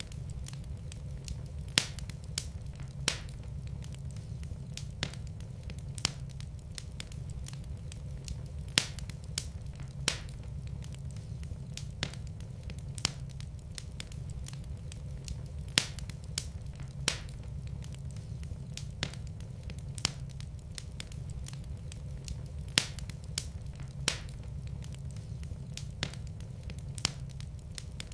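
Wood fire burning in a fireplace, crackling: irregular sharp pops, a few of them louder, over a steady low rumble.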